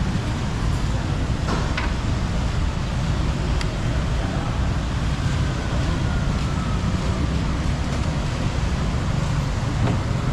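Steady rumble of road traffic, with a few short clicks and a faint falling whine about halfway through.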